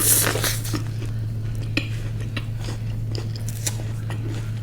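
Close-miked eating of a crisp deep-fried kachori: a crunch at the start, then a string of small crackles and chewing clicks. A steady low hum runs underneath.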